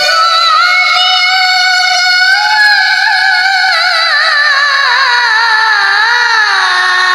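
A child's voice chanting Quran recitation (tilawah) in one long, unbroken melismatic phrase. The voice is high-pitched and wavers through quavering ornaments as it slides gradually lower, settling on a held low note near the end.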